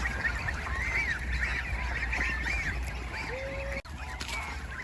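A flock of young geese calling, many short high-pitched calls overlapping without a break. The chorus drops out suddenly for a moment about four seconds in.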